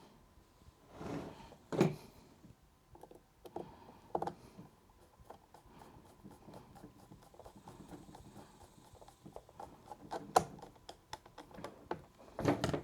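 Scattered light clicks and taps of plastic and metal parts as a fencing scoring reel is put back together and its screws fitted, with a few sharper knocks about two, four, ten and twelve seconds in.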